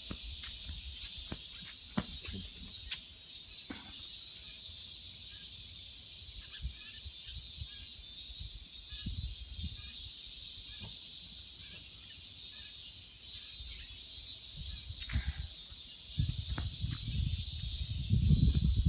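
Steady high-pitched buzzing of insects outdoors, with a few faint ticks and low rumbling bumps on the microphone near the end.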